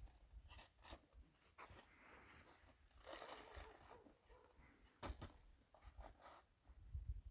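Near silence, with faint scattered rustles and small clicks.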